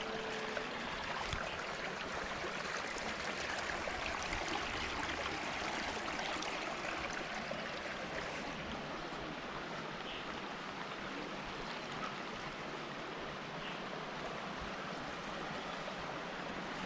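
Steady rush of running water from a mountain stream.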